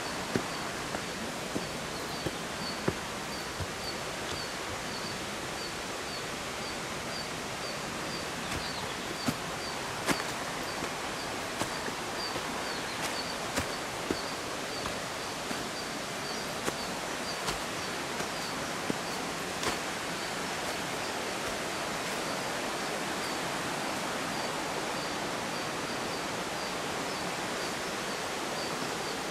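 Steady outdoor rushing noise with scattered sharp clicks and a faint high chirp repeating about twice a second.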